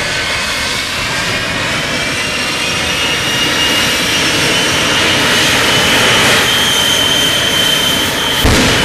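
Jet engines running loud and steady, with a high whine that slowly climbs in pitch, then a sharp bang near the end.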